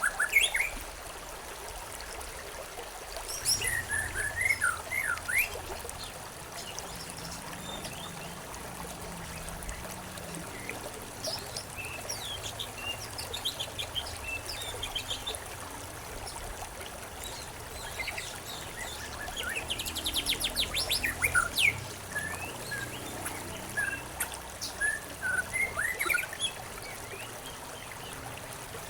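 Several songbirds chirping in short bunches of calls over the steady trickle of a stream. A fast, loud trill comes about twenty seconds in.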